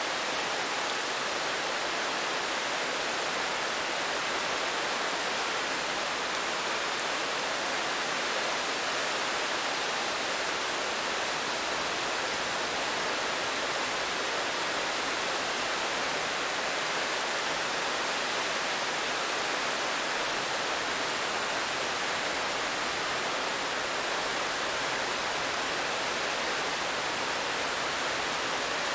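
Steady rain falling, an even hiss with no single drops standing out and no change in strength.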